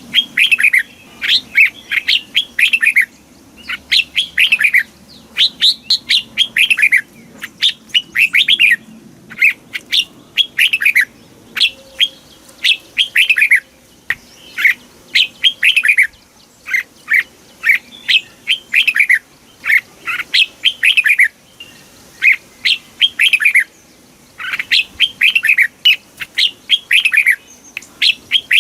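Red-whiskered bulbul singing: phrases of several quick, falling notes, each phrase about a second long, repeated again and again with short pauses.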